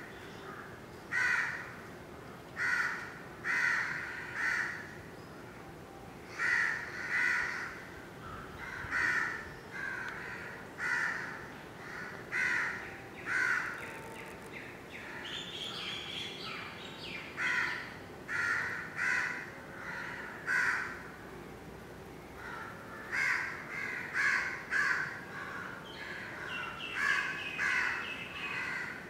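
Birds calling: a long series of short, harsh calls, roughly one a second, with a higher, thinner call twice, once midway and once near the end.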